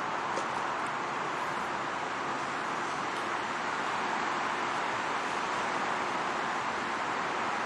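Steady rushing street noise of city traffic and air, heard while cycling, with no distinct events.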